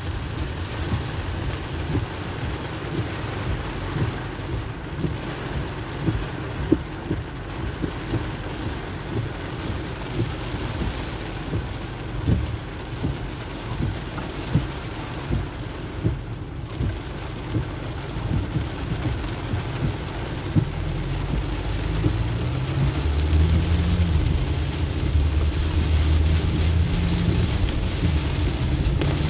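Heavy rain pelting a car's roof and windshield, heard inside the cabin, a steady hiss scattered with sharp drop ticks. In the last third, the low rumble of engine and wet tyres grows louder as the car gets moving.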